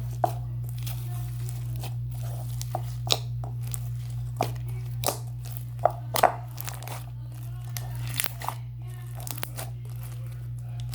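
Borax-activated glitter slime being squished and pressed by hand for ASMR, giving irregular crackling pops and clicks, a few of them sharp and loud.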